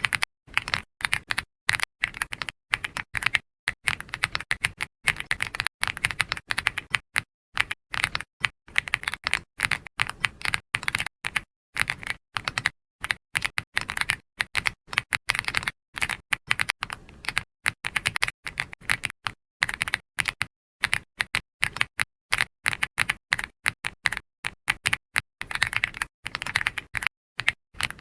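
Computer keyboard being typed on: quick, irregular runs of key clicks with brief pauses between bursts.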